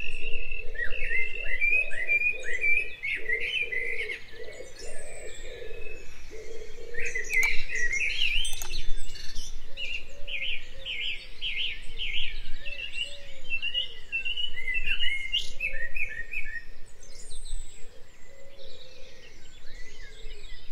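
Birds chirping: a dense run of quick, high chirps from several birds at once, with lower repeated notes underneath.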